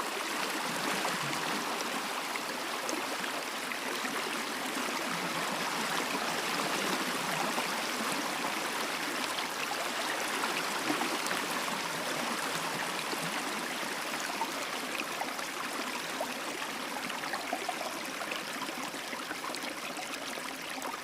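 A stream of running water flowing steadily, a constant rushing and burbling with no pauses.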